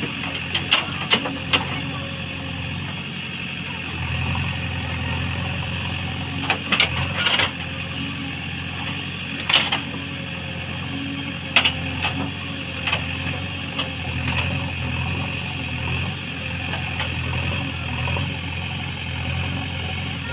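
JCB 3DX backhoe loader's diesel engine running, its level swelling and easing at times as it works, with several sharp knocks scattered through, the loudest about twelve seconds in.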